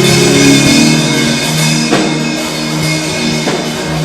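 Worship band music: held keyboard chords with a few sparse drum hits.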